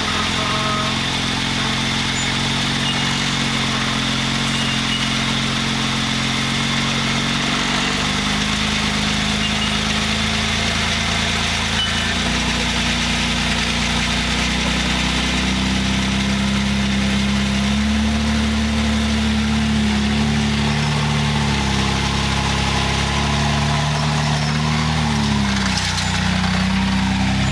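Vehicle engine running at low revs, its pitch rising and falling slowly as the throttle is worked, with no break.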